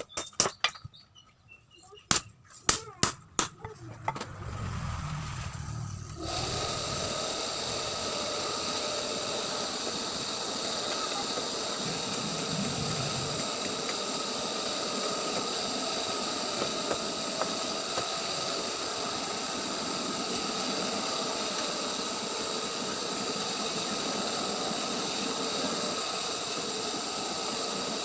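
A few quick ringing hammer blows on steel about two to four seconds in, then from about six seconds in a steady machine hiss with a whir of several steady tones that runs on without change.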